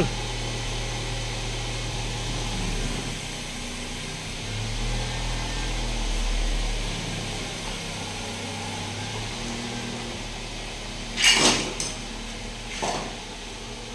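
A steady low engine hum, swelling a little for a couple of seconds in the middle. Two sharp knocks come near the end, the first the louder.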